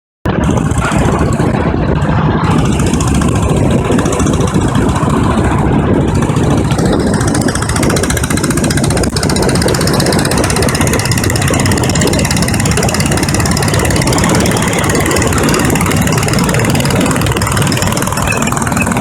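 1937 BSA M20's single-cylinder side-valve engine running steadily while the motorcycle is ridden; the sound cuts in abruptly a moment after the start.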